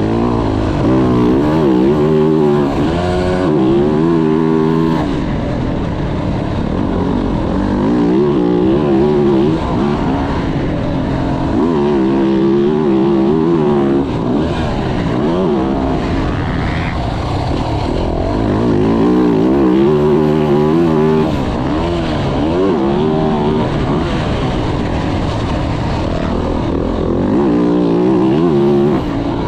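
Motocross dirt bike engine revving up and down over and over as it is ridden round the track, with the throttle opened and closed every second or two, and wind noise underneath.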